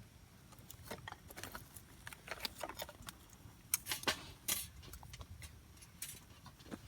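Campfire crackling: burning wood giving off irregular small pops and snaps, a few louder ones about four seconds in.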